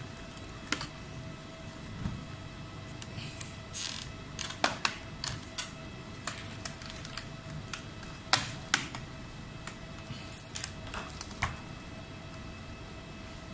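Irregular light clicks and taps of small tools and laptop parts being handled during the repair, over a faint steady whine.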